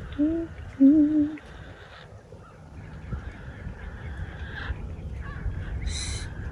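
A woman humming a short wavering tune for about a second and a half, then a quieter steady outdoor hiss, with one short high-pitched bird call about six seconds in.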